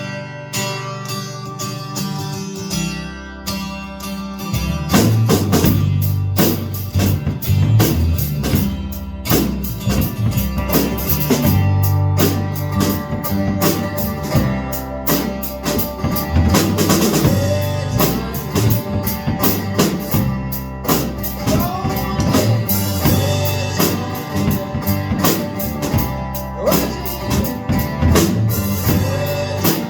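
Live band playing an instrumental passage: guitar at first, a bass line joining about three seconds in, and a drum kit coming in about five seconds in with a steady beat.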